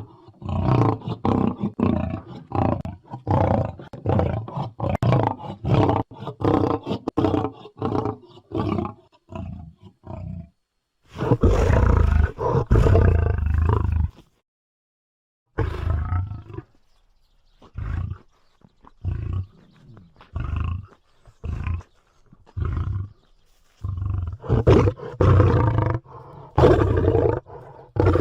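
Lion roaring in a bout. There is a run of short, deep grunts about two a second, then one long roar a little before the middle. After a brief pause come more grunts, and long roars near the end.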